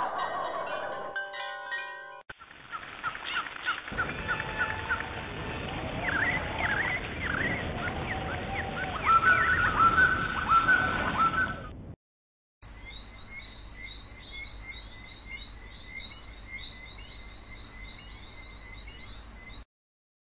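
Stock recordings of songbirds chirping and singing, spliced together: a short stretch of ringing tones at the start, one bird clip, a brief gap near the middle, then a second clip with higher, quicker chirps.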